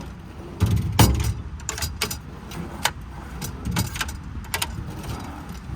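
Scattered metallic clinks and knocks with a few heavier thumps, as metal service-body drawers and their contents are handled, over a low rumble.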